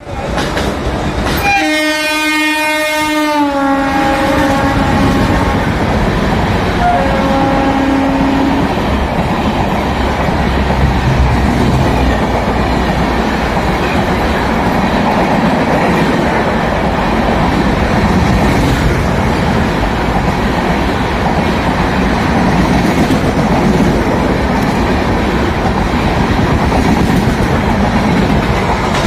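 Indian Railways train: the locomotive horn sounds for about two seconds near the start, then again briefly a few seconds later. After that the steady rumble and clatter of the train running on the rails goes on.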